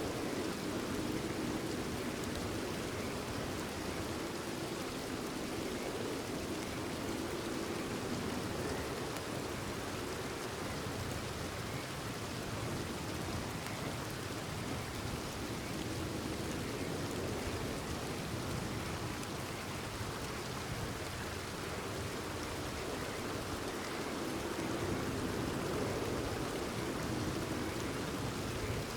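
Steady rain falling, with frogs calling.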